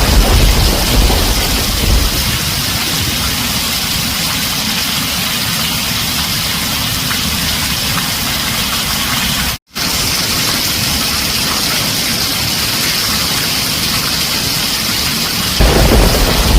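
Heavy rain on a tin roof, a steady loud hiss. Low thunder rumbles at the start, dies away within about two seconds, and rolls in again loudly about a second before the end. The sound cuts out completely for a split second about halfway through.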